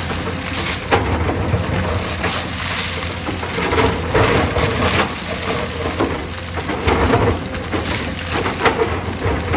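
Hyundai excavator's diesel engine running steadily under load, with a steady whine from its hydraulics and irregular knocks and crunches of rock and dirt being dug and dropped.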